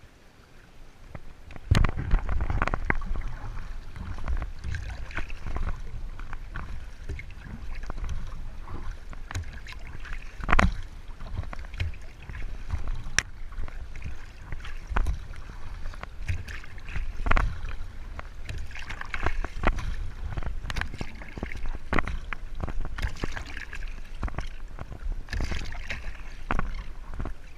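Water splashing and sloshing around a kayak, with irregular knocks and a low rumble, starting about two seconds in.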